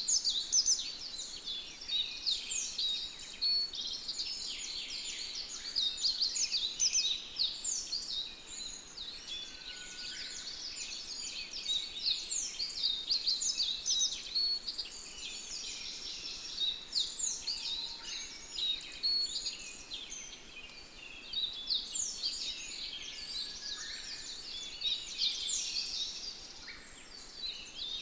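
A dense chorus of small birds chirping, many quick high chirps overlapping without a break.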